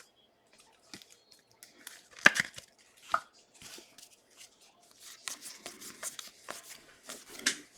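Trading cards being handled: scattered flicks and rustles, with a few sharper snaps, becoming a busier run of rustling clicks in the last few seconds.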